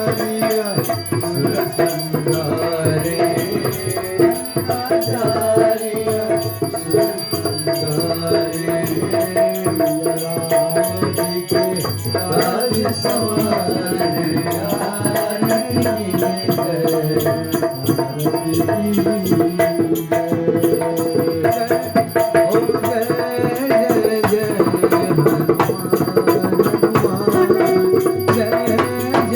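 Hindu arti devotional song: voices singing over hand drums and rattling percussion that keep a steady rhythm.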